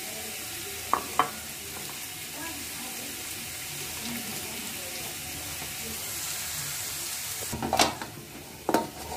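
Steady sizzle of onion paste frying in oil, under hands mixing flour and water into dough. There are two sharp knocks about a second in, and louder slaps and knocks near the end as the dough is kneaded on a steel plate.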